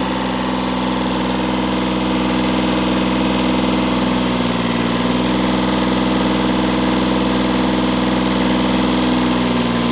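Kubota tractor engine idling steadily.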